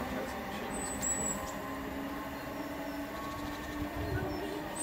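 A train running in the distance, a steady low hum over a rumble, with a short high chirp about a second in.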